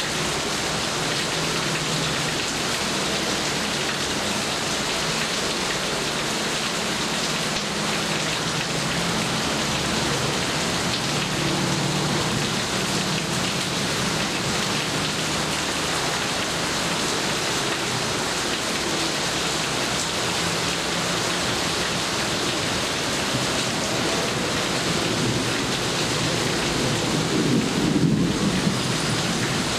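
Steady heavy rain falling, with thunder rolling low underneath in the first half and a louder rumble of thunder near the end.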